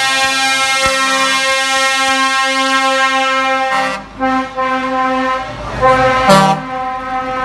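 Truck air horns sounding a loud held chord of several tones for about four seconds, then a few short toots and a sharp, louder blast about six seconds in.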